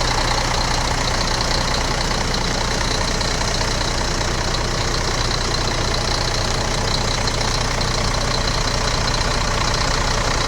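Scania G380's 11.7-litre turbo-diesel engine with PDE unit injectors idling steadily. It cuts off suddenly at the very end.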